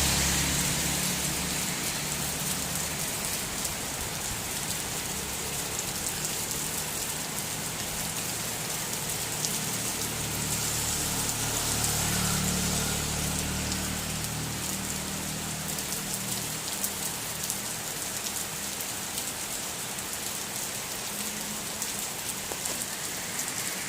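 Heavy rain pouring down steadily in a strong wind. A low rumble sounds at the start and again about halfway through.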